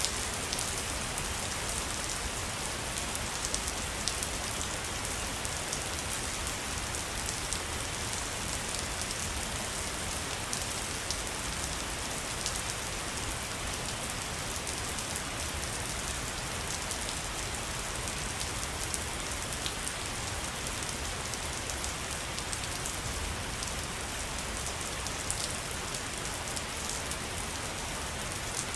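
Waterfall: a steady rush of falling water with fine splashing.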